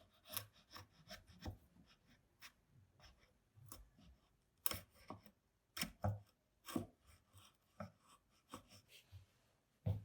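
Hand woodworking on a wooden mortise-and-tenon joint: irregular sharp taps and knocks of wood on wood, with light scraping between them.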